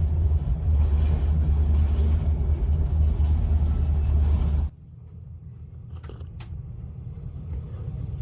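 Heavy, steady low rumble of a train in motion. About two-thirds of the way in it cuts suddenly to a quieter rumble, with two short clicks soon after.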